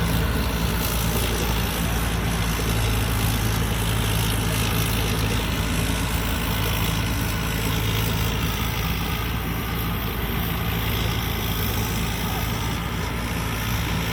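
Heavy diesel engine running steadily at constant speed, a low even hum over a steady rushing noise.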